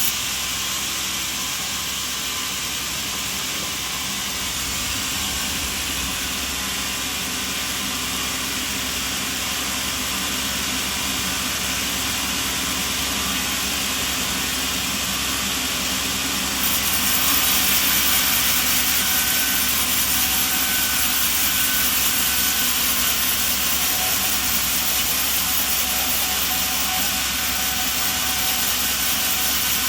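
Sawmill machinery running with a steady, hissing mechanical noise. It changes abruptly and gets a little louder about two-thirds of the way through.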